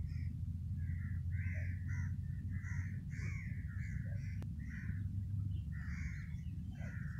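Birds calling over and over in short calls, about two a second, over a steady low rumble.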